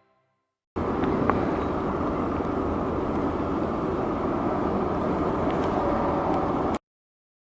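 Steady roar of jet aircraft engines, cut in suddenly about a second in and cut off abruptly near the end.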